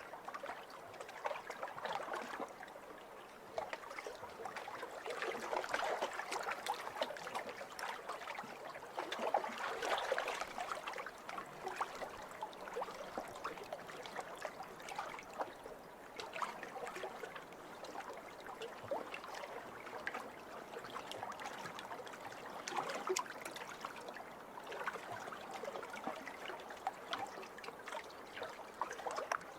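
Small waves lapping over a pebble shore, with a fine crackling and clicking of water running among the stones. The wash swells and eases every few seconds.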